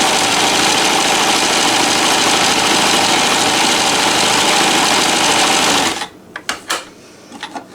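Rod-driven NELCO L400 zigzag sewing machine running steadily at speed, sewing a decorative stitch. It stops suddenly about six seconds in, followed by a few light clicks and knocks.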